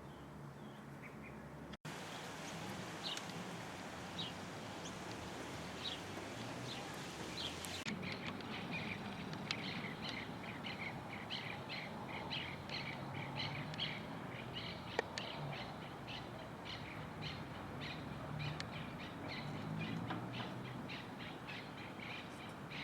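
Birds chirping: single short high calls every second or so, then from about eight seconds in a quicker run of chirps, roughly three a second, over a steady background hiss.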